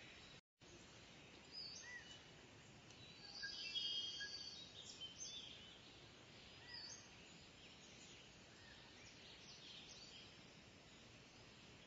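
Faint outdoor ambience with birds chirping in short high calls, busiest about four seconds in; the sound drops out completely for a moment about half a second in.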